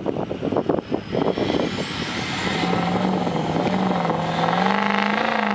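Truck engine revving hard under load in a truck pull: ragged and uneven at first, then from about halfway a steady high drone whose pitch wavers slightly and creeps up near the end.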